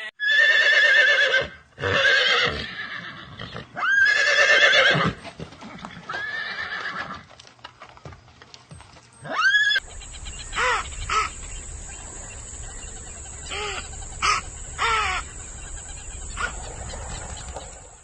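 Horses neighing: a series of loud whinnies with wavering pitch, then, after a cut near the middle, several shorter whinnies over a steady background hiss.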